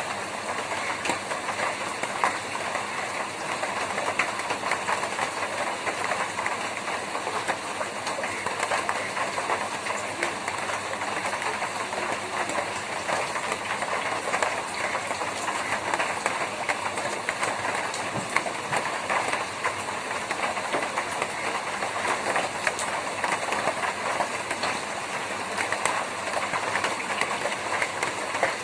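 Rain on a tin roof: a steady, dense patter of many small ticks from drops hitting the metal sheets.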